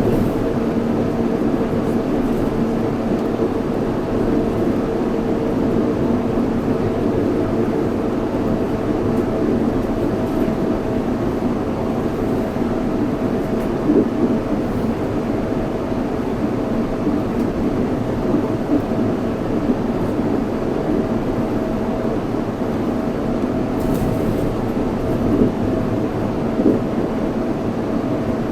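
Yurikamome 7300-series rubber-tyred automated guideway train running steadily, heard from inside the car: an even rumble with a steady held tone, and a few light knocks around the middle and near the end.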